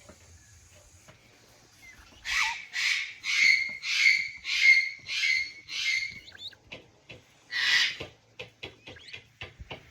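A young duck quacking, a run of about seven harsh quacks in quick succession, then one more after a short pause, followed by a series of light clicks.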